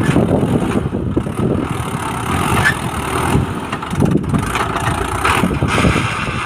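Swaraj 843 tractor's diesel engine running.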